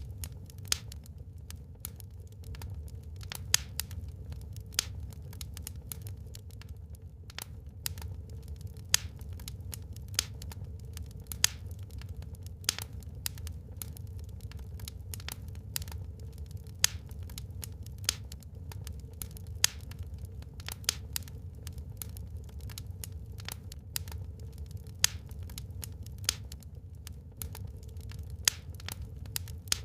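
Wood fire burning in a fireplace, crackling with irregular sharp pops, a few of them much louder, over a steady low rumble.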